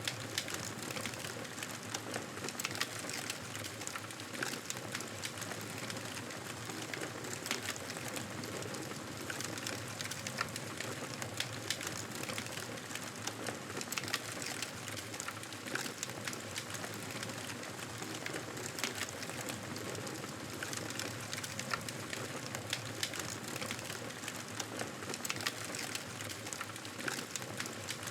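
Campfire burning steadily: a constant hiss with frequent small crackles and pops.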